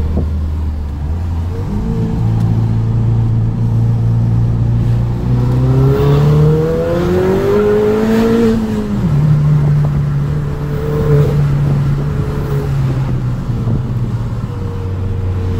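Ford Fiesta ST180's turbocharged 1.6-litre EcoBoost four-cylinder, with a stainless tubular exhaust manifold, heard from inside the cabin on the move. The engine note steps up about two seconds in, then climbs steadily through the revs from about five seconds in. It drops sharply about nine seconds in and then holds steady.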